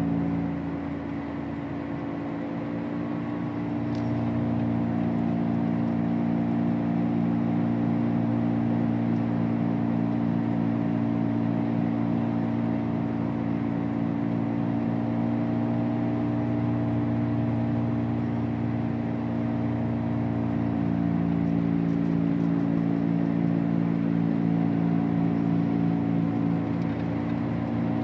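2003 Honda Civic driving: a steady droning hum with a whir over road noise. It is the unexplained noise that grows louder and faster with road speed whatever gear the car is in, so it follows road speed rather than engine speed.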